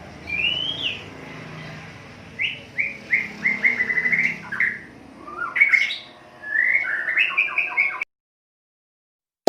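White-rumped shama (murai batu) singing: a rising whistled note, then quick runs of short repeated chirping notes, breaking off suddenly about a second and a half before the end, followed by silence.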